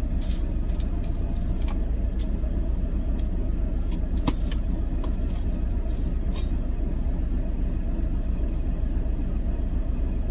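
Truck engine idling with a steady low rumble, heard from inside the cab, with small clicks and rustles over it and one sharper click about four seconds in.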